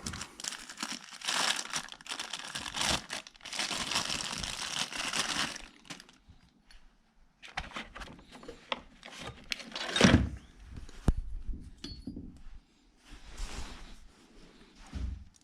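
Packaging crinkling and tearing, probably wrapping being opened on new engine parts, in two long stretches at the start. Scattered small clicks follow, with one sharp knock about ten seconds in and a brief rustle near the end.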